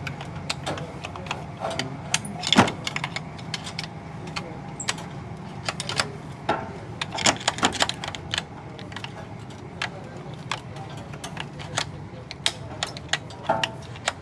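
Irregular sharp clicks and light clinks, dozens of them at uneven spacing, over a steady low hum.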